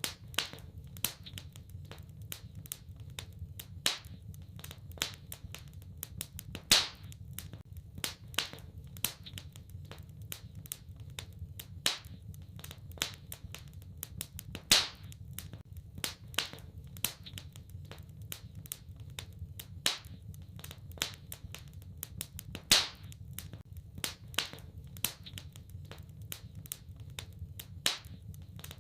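Wood fire crackling in a fireplace: a steady stream of small crackles, with a louder sharp pop every few seconds, over a steady low rush.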